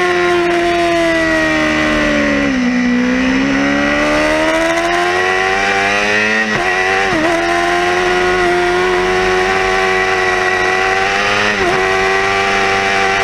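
Yamaha R6 (5EB) 600cc inline-four engine at high revs on track, heard from on board. The engine eases off with the pitch sagging about two to three seconds in, then pulls hard again, with quick upshifts near the middle and near the end, each a short sharp dip in pitch before it climbs again.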